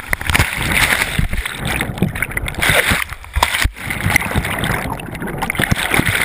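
Whitewater rapids rushing and splashing right at the microphone, with many irregular knocks and thumps and a brief dropout a little past halfway.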